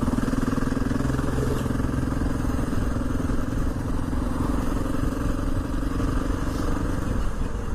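Honda XR650R single-cylinder four-stroke motorcycle engine running at a steady speed under way, its note easing off near the end.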